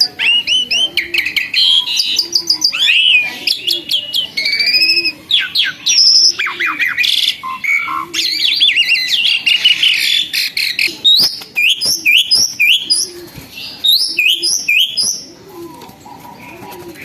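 Asian pied starling (jalak suren) singing a loud, varied song of whistled glides and quick chirps, with a run of repeated short rising notes in the second half. It quiets down near the end. The bird is in full song ('gacor').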